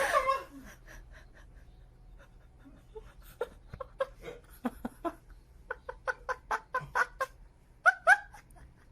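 An animal making a run of short, clipped calls, about two or three a second, starting about three seconds in.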